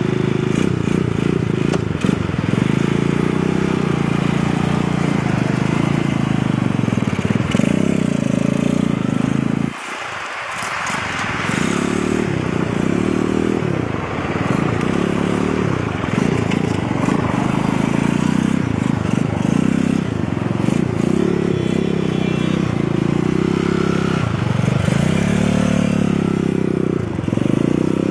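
Small motorcycle engine running and revving up and down, with a brief drop in level about ten seconds in.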